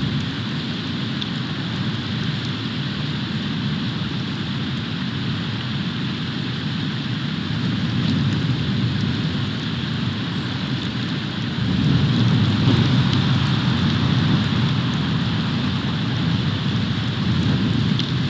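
Snowstorm wind buffeting the eagle nest-cam microphone: a steady rushing noise with a low rumble that grows louder about twelve seconds in.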